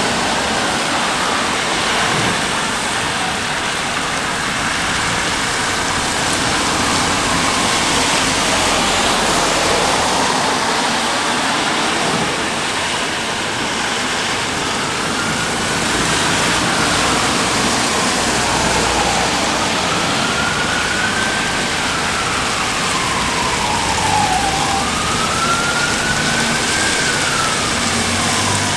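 Steady rain falling. From about halfway through, an emergency-vehicle siren wails, slowly rising and falling about every four seconds.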